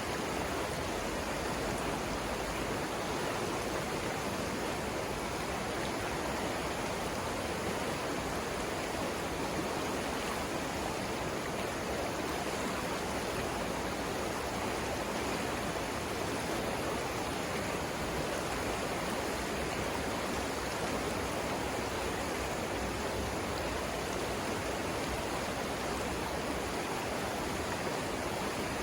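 Savannah River rapids: a steady, unbroken rush of flowing water.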